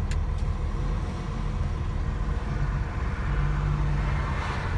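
Truck engine running with a steady low rumble, heard from inside the cab. Two short clicks come right at the start.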